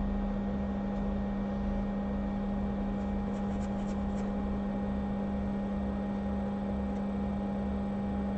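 A steady hum with a strong low tone, and a slow pulsing throb beneath it. A few faint ticks come about three to four seconds in.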